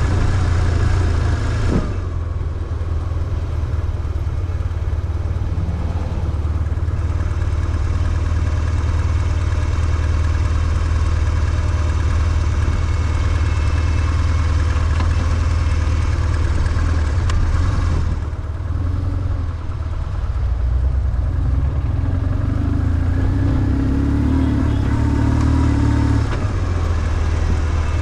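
BMW R1150GS boxer twin engine running under way, a steady low engine note that eases briefly about two seconds in and again near the eighteen-second mark.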